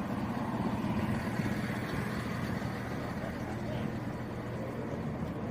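Diesel multiple unit's underfloor engines running steadily, a low even drone.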